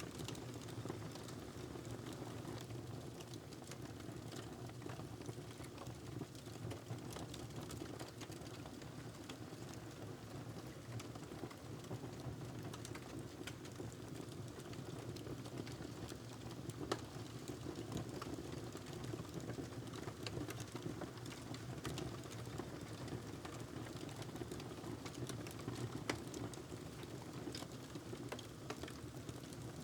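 Wood fire crackling in a fireplace: a steady stream of small irregular crackles over a low, even rumble, with a couple of louder pops, one about halfway through and one near the end.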